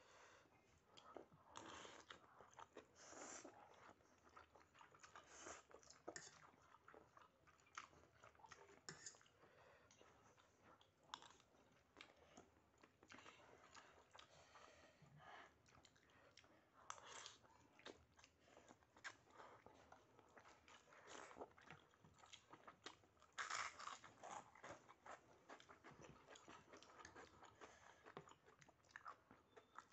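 A person chewing and biting a mouthful of instant noodles and rice: faint, irregular wet mouth clicks and soft crunches.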